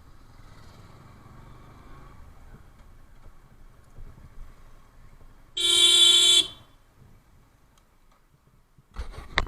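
A vehicle horn honks once, a single steady blast of about a second midway through, over faint street traffic. A short dull thump follows near the end.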